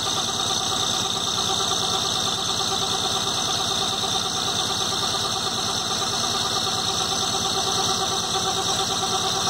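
Volkswagen Santana engine idling steadily, an even rapid pulse with a steady hiss over it.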